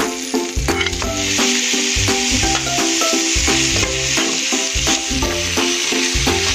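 Beef chunks with onion, red pepper and ginger sizzling in a hot nonstick frying pan as they are stir-fried with a wooden spatula; the sizzle grows louder about a second in. Background music with a steady beat plays over it.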